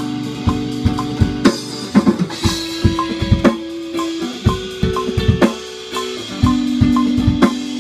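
A band playing: drum kit with kick and snare hits about twice a second, over held pitched notes that change every couple of seconds.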